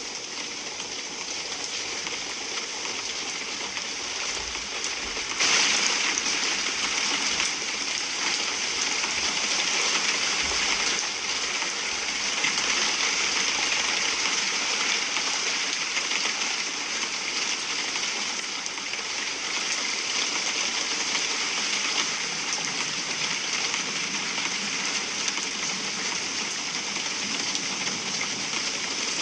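Heavy rain falling in a dense, steady hiss, growing suddenly louder about five seconds in.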